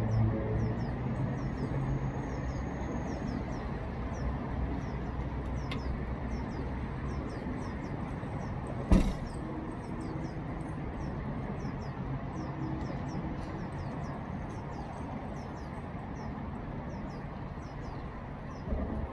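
A steady low rumble with faint, short high chirps repeating throughout, and a single sharp knock about nine seconds in.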